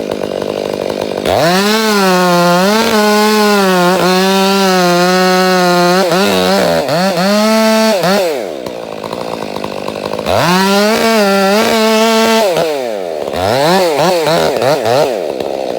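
Two-stroke chainsaw idling, then revved to full throttle about a second in and held for several seconds with its pitch dipping and recovering as it cuts wood. It drops back to idle, revs again, then gives a few quick throttle blips before settling to idle.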